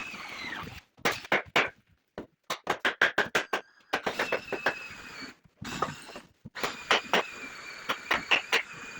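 Metalworking sounds in short clips cut together: sharp metal taps and clanks, a fast run of them a few seconds in, with a steady high whine under some of the clips.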